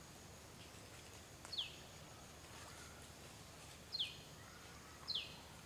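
A bird calling three times over faint outdoor ambience: short high notes that slide quickly down in pitch, about a second and a half in, at four seconds and again near the end.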